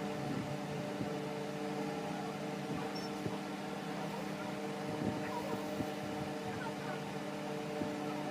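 Steady hum of an electric table fan running, with a few faint clicks and taps from bench work.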